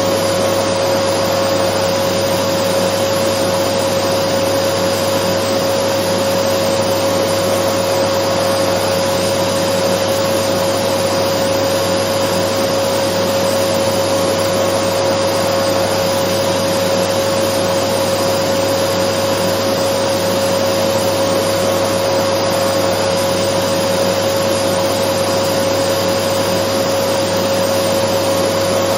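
Dyson vacuum cleaner running continuously at a constant speed: an even rush of air with a steady whine held at one pitch.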